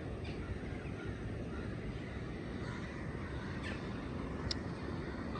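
A crow cawing a few times, short harsh calls over a steady low outdoor rumble.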